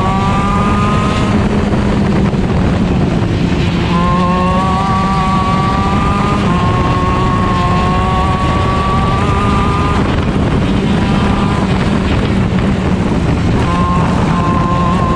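Stock Honda 125cc two-stroke shifter kart engine heard onboard at racing speed, with heavy wind and road noise. Its pitch climbs under acceleration near the start and again about four seconds in, holds high for a few seconds, drops back around ten seconds, and climbs again near the end.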